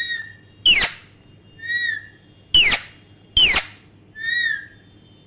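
Pet talking parrot making a run of short calls: three sharp, loud smacking notes that drop quickly in pitch, alternating with three softer rise-and-fall whistles, the smacks sounding like mimicked kisses given on request.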